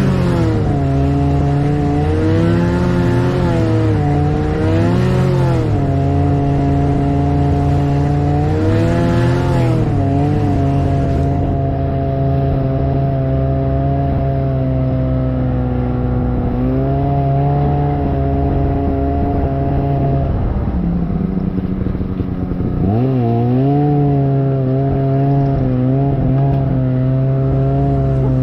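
Snowmobile engine running under way, revving up and down several times in the first ten seconds, then holding a steady pitch. About twenty-one seconds in it drops back briefly, then revs up again and holds.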